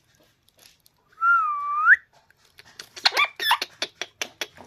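A pet parrot whistles once about a second in, a clear note that dips slightly and then sweeps up sharply at the end. A run of quick clicks and short, falling chirps follows.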